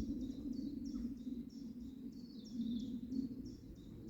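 Bees buzzing close by in a steady, wavering low drone, with a bird chirping in quick repeated high notes, about two to three a second, behind it.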